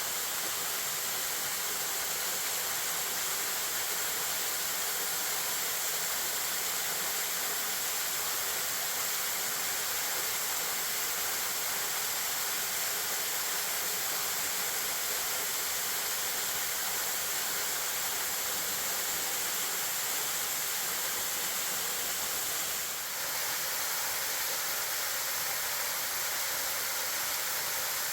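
Steady rush of a waterfall in high flow, with a brief dip in level near the end.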